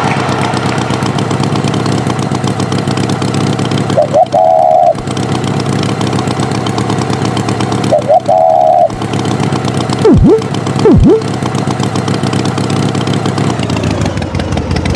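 Steady engine sound of an animated tractor, running at an even pitch. Two short, high honk-like tones break in about four and eight seconds in, then two quick whistles that drop steeply in pitch, about a second apart, near two-thirds of the way through.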